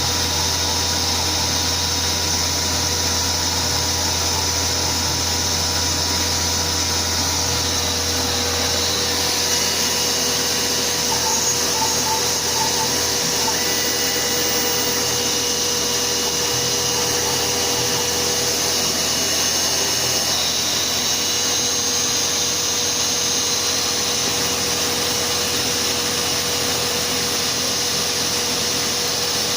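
Chinese 6040Z CNC router's spindle running steadily as it cuts a one-sided FR2 circuit board, over the steady rush of the dust extraction vacuum. A low hum drops away about nine seconds in.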